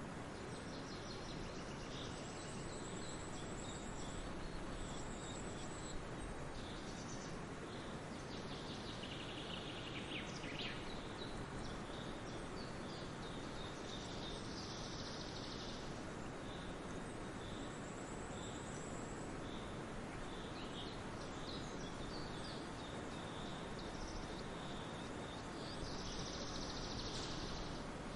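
Several songbirds chirping and calling over a steady outdoor background hiss, with a thin high trill twice and a couple of dense, buzzy bursts of calls about halfway through and near the end.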